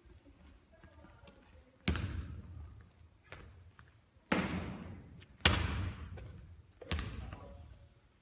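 Basketball bouncing hard on a court floor: four loud bounces, a second or more apart, each ringing out with an echo.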